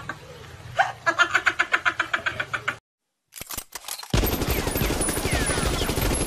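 Machine-gun fire sound effect: a dense, rapid burst of automatic shots starting about four seconds in, after a few sharp single clicks. Before that, a fast run of repeated ticking notes stops abruptly, leaving a brief silence.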